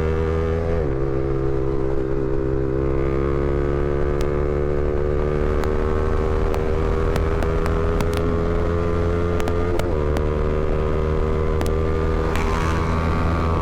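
Honda CBR300R's single-cylinder engine running under way. The revs drop sharply about a second in and again near ten seconds in, as on gear changes, and climb slowly in between as the bike gathers speed.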